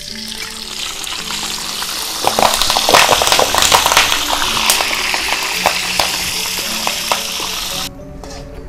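Kaffir lime leaves frying in hot oil in a metal wok: a loud sizzle full of crackling spits, busiest a few seconds in. The sizzle drops away sharply near the end as the leaves are lifted out of the oil.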